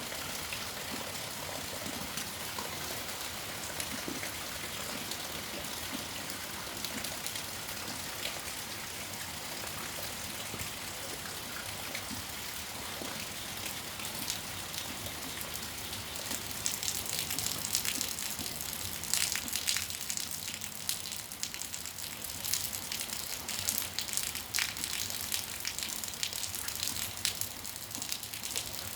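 Steady rain falling, a constant hiss with the patter of drops. About halfway through, the patter grows louder and sharper, with many close drop hits.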